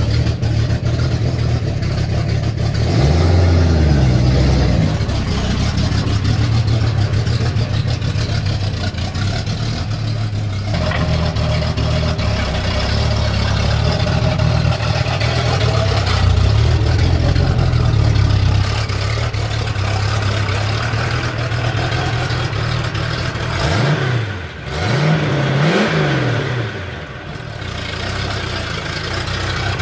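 Ford XC Fairmont's engine running steadily, its revs rising and falling briefly a few seconds in and again several times near the end.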